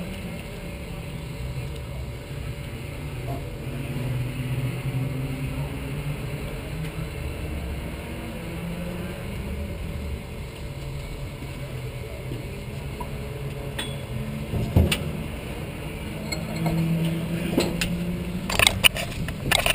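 Race car engine idling with a low, uneven hum, joined by a few sharp clicks and knocks near the end.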